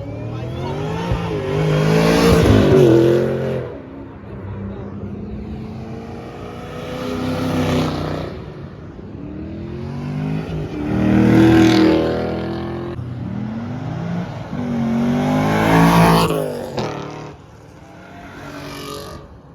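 Yamaha R6 sport bike's inline-four engine being revved four times, each rev climbing in pitch and dropping back toward idle. On its stock catalytic converter it is not too noisy.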